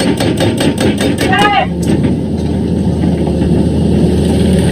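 Excavator diesel engine running steadily. Over the first two seconds it is overlaid by a rapid run of sharp knocks, about seven a second, and a brief voice-like cry comes about a second and a half in.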